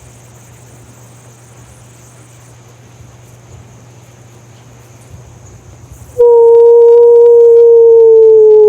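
A quiet, steady background of a flowing river. About six seconds in, a loud, clear held tone starts suddenly and slowly sinks in pitch.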